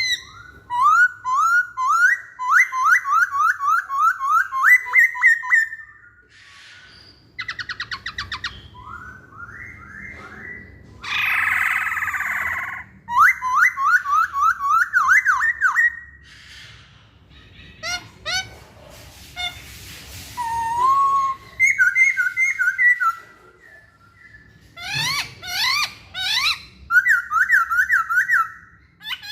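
Masked laughingthrush (Poksay Hongkong) singing: phrases of quick rising whistled notes in rapid runs, repeated with short pauses. A harsh, rasping call breaks in a little before the middle.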